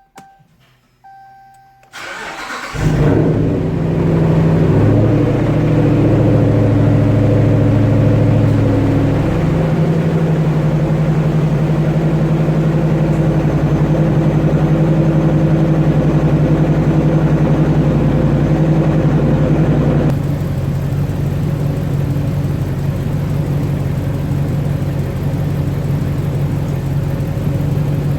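2016 Ram 1500 engine being started after its water pump replacement: a brief beep, then cranking about two seconds in, and the engine catches. It runs at a raised fast idle, then settles to a lower, steady idle about twenty seconds in.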